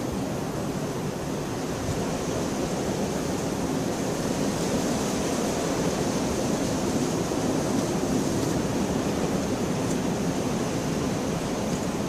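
Steady heavy rainfall, a dense even hiss with a deep low body, growing a little louder a few seconds in.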